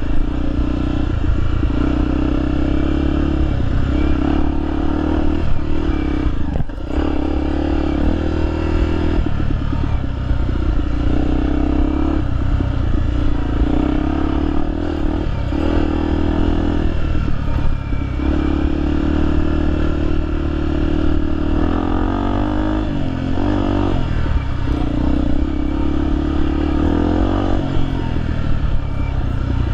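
Honda XR 250 Tornado's single-cylinder four-stroke engine running hard as the bike is ridden. The throttle opens and closes every couple of seconds, with the engine note rising in pitch between breaks and a brief drop about seven seconds in.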